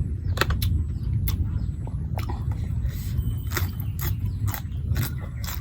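A person eating noodle soup: chewing with frequent short, sharp clicks, over a steady low rumble.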